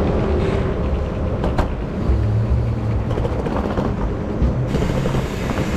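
Passenger train running: a steady low rumble.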